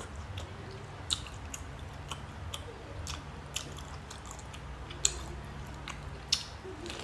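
Close-miked eating of babylon sea snails: chewing with sharp clicks and smacks every second or so.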